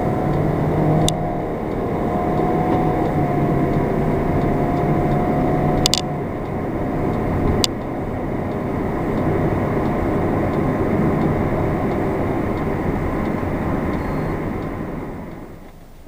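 A Jeep Patriot's four-cylinder engine running hard at full throttle, heard inside the cabin with road noise, its note held nearly steady with a slight rise about two seconds in while the car gathers speed only very slowly. The rebuilt JF011E CVT is in limp mode with low line pressure, code P0777. A few short sharp clicks are heard, and the sound drops away near the end.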